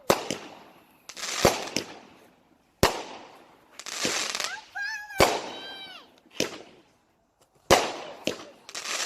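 Fireworks going off: a string of sharp bangs at uneven gaps of a fraction of a second to about a second and a half, each trailing off in a crackling hiss.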